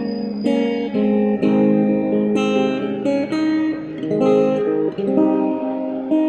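Acoustic guitar strummed and picked with no singing, moving through a run of chords that change about every half second to a second.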